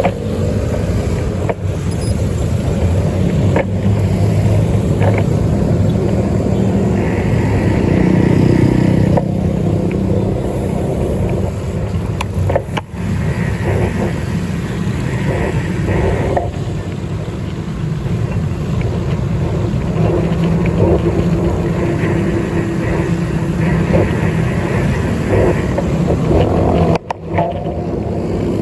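Steady rumble of a moving vehicle during a ride, continuous and loud, dipping briefly twice.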